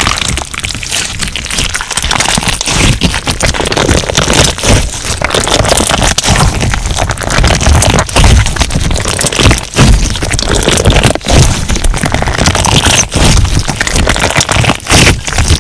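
Crunchy slime being squeezed and kneaded by hand, giving a loud, dense run of crackles and snaps.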